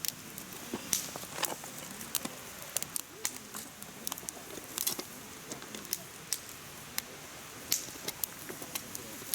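Firewood burning in a mesh fire pit: logs crackling with frequent irregular sharp pops over the steady hiss of the flames.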